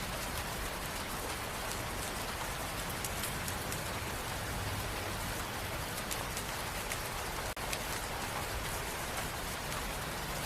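Steady rain, an even hiss with fine drops ticking throughout; the sound drops out for an instant about three-quarters of the way through.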